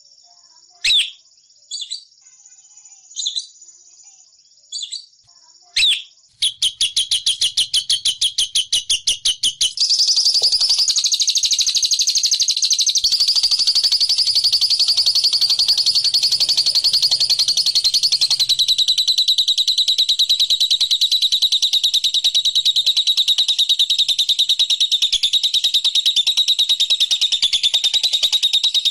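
Lovebird song: a few separate short high chirps, then about six seconds in a rapid pulsed chatter that runs into a long, unbroken, very fast high trill, the drawn-out 'ngekek' song.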